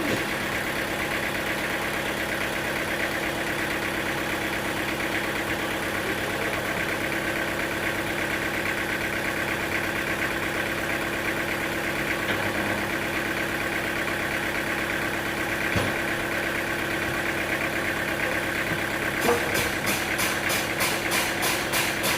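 An engine running steadily at a constant speed. About nineteen seconds in, a rhythmic ticking of about four beats a second joins it.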